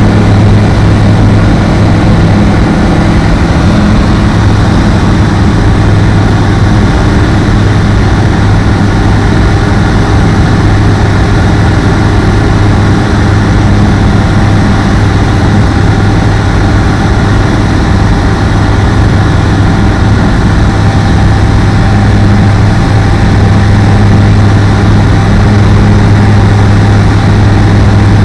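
Apollo Fox ultralight aeroplane's engine and propeller droning steadily in flight, a loud, even hum with no change in pitch.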